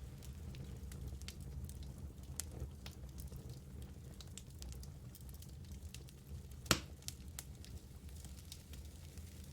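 Wood fire crackling in a fireplace: a steady low rumble of burning with scattered small snaps, and one louder pop about seven seconds in.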